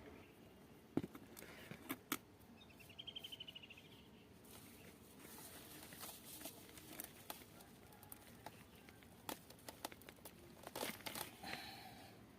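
Faint crinkling and rustling with scattered sharp taps and clicks, typical of hands working soil and a plastic pot while planting a seedling. About three seconds in comes a short, rapid, high trill.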